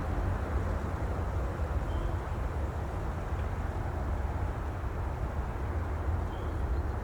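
Steady low rumbling wash of ocean ambience, heaviest in the deep bass with a softer hiss above and no distinct wave breaks.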